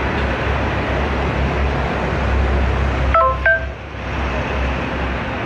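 Steady low rumbling background noise, broken a little after three seconds in by two quick electronic beeps, each with two tones.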